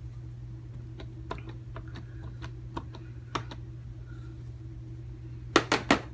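Light, scattered taps and clicks of a rubber stamp and ink pad being handled as the stamp is inked, ending in a quick run of three or four louder taps near the end. A steady low hum lies underneath.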